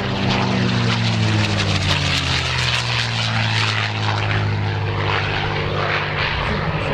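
Propeller aircraft flying past, its engine drone dropping slightly in pitch as it goes by.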